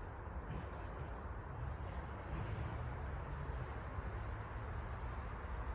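Small songbirds chirping: short, high, down-slurred chirps repeated irregularly, roughly two a second, over a steady low background rumble.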